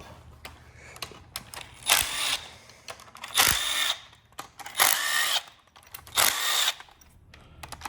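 Cordless power tool run in four short bursts about a second and a half apart, each about half a second long, as the bolts holding the automatic transmission's front oil pump are backed out.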